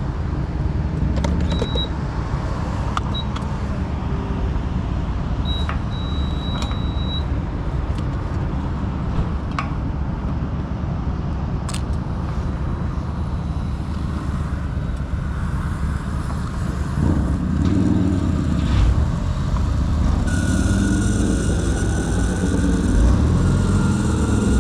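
Motorcycle engine running steadily under way, mixed with wind rush on the microphone. A thin steady high tone comes in about twenty seconds in.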